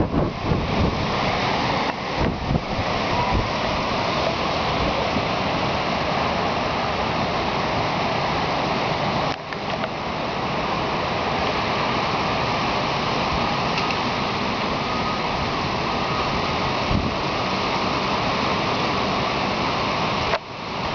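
Strong wind blowing hard in bad weather, a loud steady rush with gusts buffeting the microphone as low rumbles in the first few seconds.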